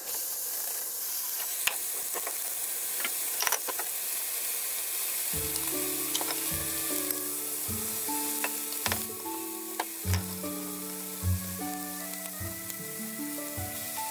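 Curry-seasoned chicken thigh and leek sizzling in hot oil in a frying pan. The sizzle starts as the food goes in and eases off a little after about nine seconds, with a few light clicks along the way.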